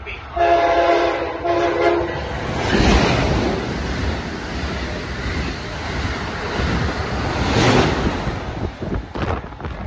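Amtrak Acela Express trainset sounding its multi-tone horn for about a second and a half, then passing through the station at speed with a loud rush of wheels on rail and wind. The rush is loudest about three seconds in and again near eight seconds in, as the rear power car goes by.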